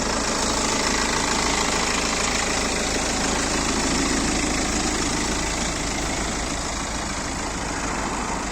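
2016 BMW X3's engine idling steadily.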